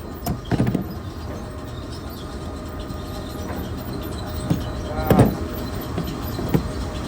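Steady rumble of running mill machinery, with several sharp metal clanks from wrench and bolt work on the grain elevator's buckets; the loudest, about five seconds in, rings briefly.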